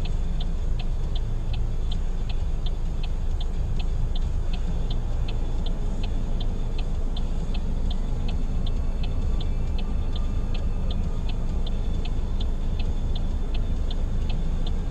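Car's turn-signal/hazard flasher clicking in a steady rhythm, about two to three clicks a second, over the low, steady rumble of the car running, heard from inside the cabin.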